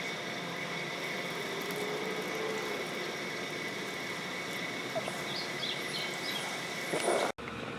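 Steady parking-lot background noise, with a thin high whine and a low hum running through it. A few faint high chirps come about five seconds in.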